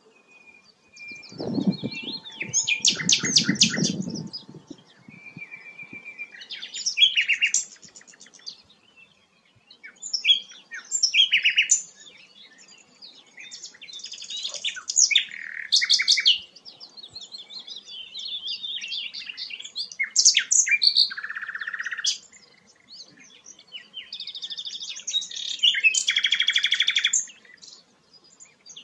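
Songbird song made up of varied phrases: rapid high trills, whistled notes and chattering runs, separated by short pauses. A deeper, rougher sound runs under the song from about two to four seconds in.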